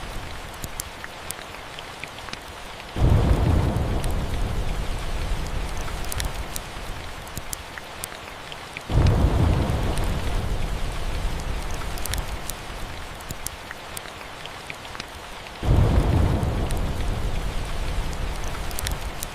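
Steady rain with three rolls of thunder, each starting suddenly and fading away over several seconds. Scattered sharp crackles of a wood fire sound over the rain.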